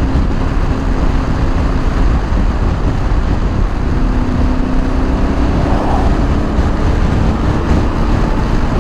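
Steady wind rush and road noise while riding a Yamaha Ténéré 700 at highway speed, with a faint steady hum from its parallel-twin engine underneath.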